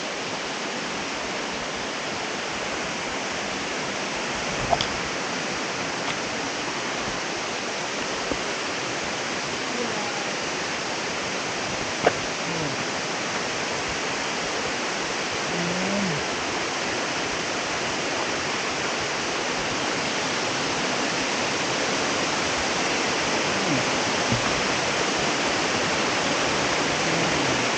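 Small waterfall pouring steadily into its pool, a constant rushing of water, with a couple of brief knocks about five and twelve seconds in.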